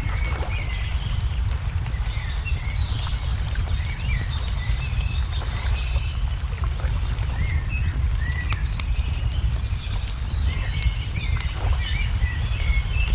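Wood fire crackling with scattered sharp pops while small birds chirp in many short calls, over a steady low rumble.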